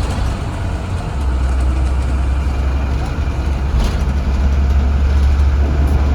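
A 2017 Blue Bird Vision school bus's engine running as a steady low drone, heard from inside the bus, growing louder about a second in.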